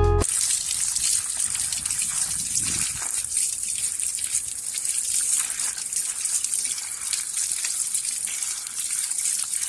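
Water gushing steadily with a bright, even hiss.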